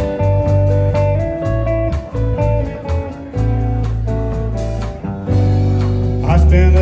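Live country band playing an instrumental intro: a guitar picks the melody over bass, rhythm guitar and a steady drum beat.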